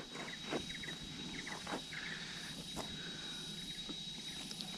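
Jungle insects: a steady high-pitched whine runs throughout, with short chirps in quick groups of three or four and scattered soft crackles.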